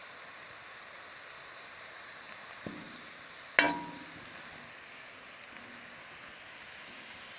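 Chopped onions sizzling in oil in a stainless-steel kadai as a steel ladle stirs them: a steady hiss, with a light click and then, a second later, a loud ringing clank of the ladle against the pan a little past the middle.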